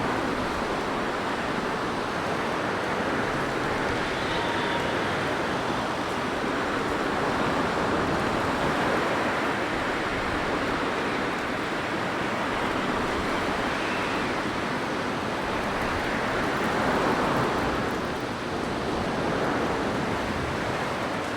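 Blizzard wind blowing, a steady rushing noise that swells in gusts and eases again.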